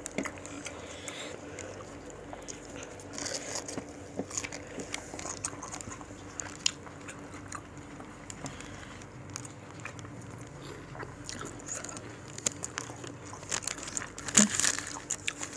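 Close-up eating sounds: biting and chewing slices of sour mango dipped in rujak sauce, a string of irregular wet clicks and smacks that gets busier near the end.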